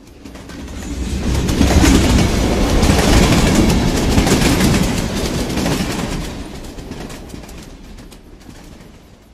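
Fast train passing over an overpass: a low rumble with rapid wheel clatter that swells over a couple of seconds, stays loud for a few seconds, then fades away.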